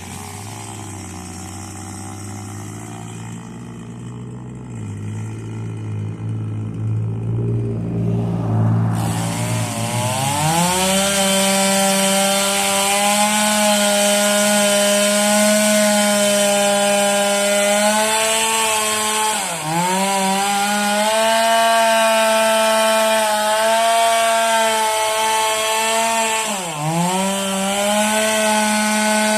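Stihl two-stroke chainsaw running at low speed, then revved up to full throttle about nine seconds in and cutting wood. The engine speed dips briefly twice as the chain bogs in the cut and picks back up.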